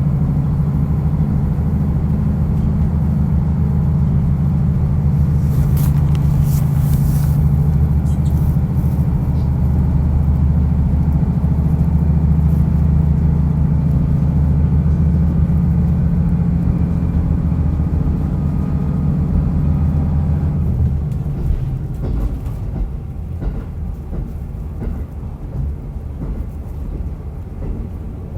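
Diesel railcar running under power, its engine drone and rail running noise steady, with a brief high hiss around six to seven seconds in. About twenty seconds in the engine note drops away as the throttle is closed and the car coasts on.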